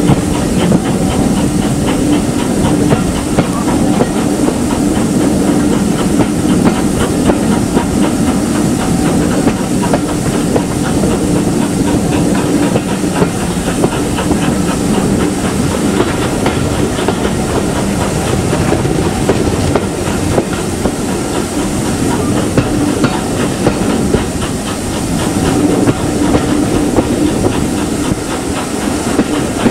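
Steam-hauled train running: a steady rumble and hiss of steam, with wheels clicking over the rail joints.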